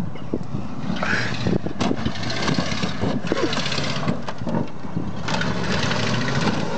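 Engines of a Ford F-150 pickup and a Ford Taurus running hard under load as the truck shoves the sedan head-on, with scattered knocks from the two vehicles' bodies.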